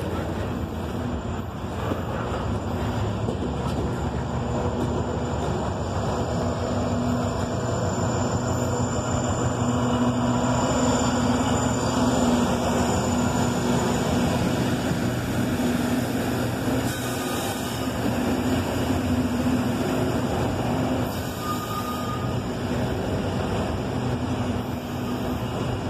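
Loaded coal hopper train rolling past close by: steady wheel-on-rail noise from the cars. A mid-train diesel locomotive passes about halfway through, adding a low engine hum and making the sound loudest then.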